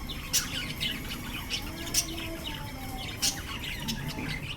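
A group of lovebirds chirping busily: many short, sharp, downward-sliding chirps, several a second, with a few louder calls standing out.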